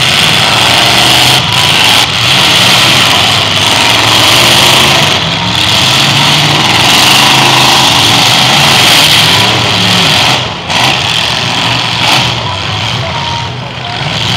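Demolition derby cars' engines revving loudly, the pitch rising and falling as they work in the mud, with brief drops in level a few times.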